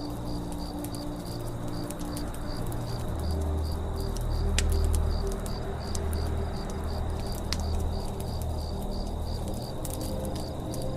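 Campfire crackling with scattered sharp pops, while a cricket chirps in a steady, even pulse. Low held tones run underneath and swell for a few seconds in the middle.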